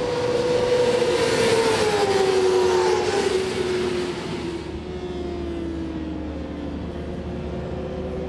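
Superbike racing motorcycle engine passing at speed, loudest about one to three seconds in, its note dropping steadily in pitch as it goes by and fades to a lower drone.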